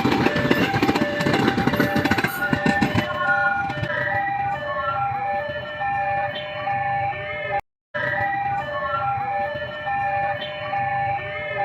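A two-tone siren sound, switching between a high and a low pitch about twice a second. A broad rush of noise runs under it for the first three seconds, and other shifting notes sound over it later. The sound cuts out briefly about eight seconds in.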